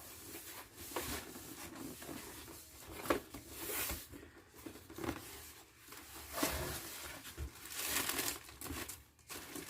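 Packing paper and shoe box being handled while new sneakers are unwrapped: irregular crinkling and rustling with a few light knocks.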